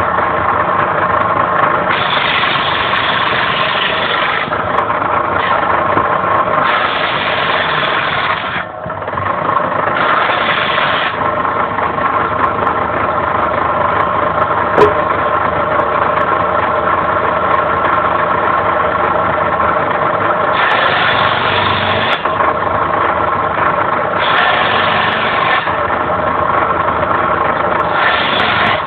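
Homemade circular saw driven by the electric motor of an old household centrifugal water pump, running with a steady whine. The whine is broken about six times by a harsher, brighter sound of a second or two, as the blade cuts through firewood.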